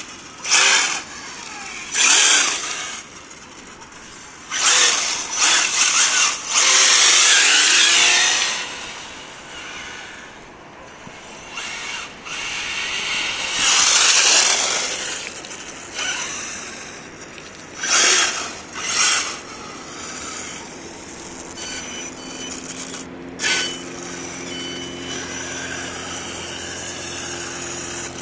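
Electric RC truck's brushless motor (Mamba Monster 2200kv, Team Associated SC8e) whining in repeated bursts of throttle, some short and some held for a few seconds. Near the end it settles into a steadier, quieter hum.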